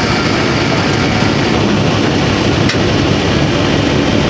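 Train running along the track: a steady, loud rumble of engine and wheels on rail, with one sharp click about two and a half seconds in.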